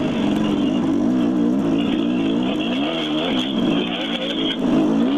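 Dirt bike engine running under changing throttle, its pitch rising and falling again and again as the bike is ridden.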